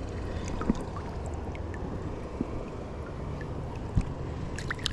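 River water sloshing and splashing as a bass is released by a wading angler, over a low steady rumble, with a sharp thump about four seconds in and a few crisp splashes near the end.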